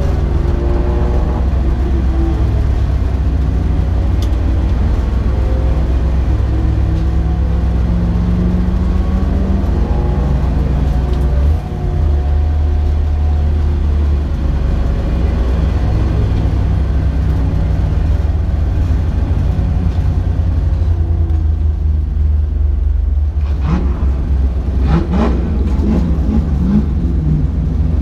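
Race car engine running hard at speed, with a brief dip and change in pitch about a third of the way through and a stretch of busier, shifting engine and tyre noise near the end.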